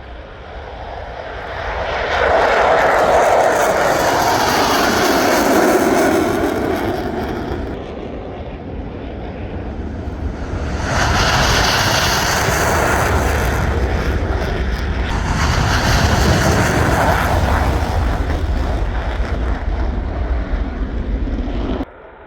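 Jet fighters, F-16s, passing in two loud swells of engine noise, the second longer than the first. The sound cuts off suddenly near the end.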